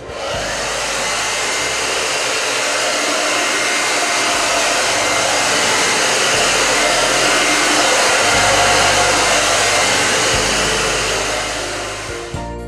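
Bosch variable-speed grinder running with a dry diamond polishing pad on a marble countertop: a steady whirring hiss with a faint high whine. It cuts in at once and fades out near the end.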